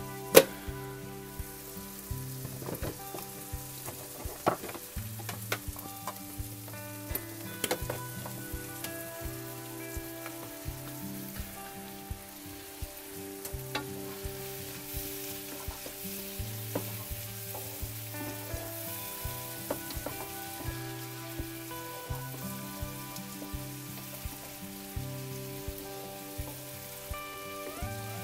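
Vegetables sizzling as they fry in hot oil in a wok, with the clicks and scrapes of a wooden spoon stirring them and a sharp knock just after the start. Light background music plays throughout.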